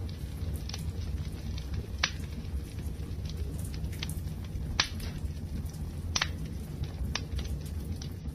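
Wood fire crackling: a steady low rumble of burning with sharp pops every second or two, the loudest about two seconds in and near five seconds.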